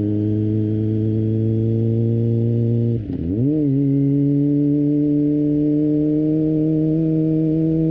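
Kawasaki ZX25R 250cc inline-four with an Akrapovic exhaust, heard from onboard, running at steady revs. About three seconds in, a gear change makes the note dip briefly; it then settles higher and climbs slowly.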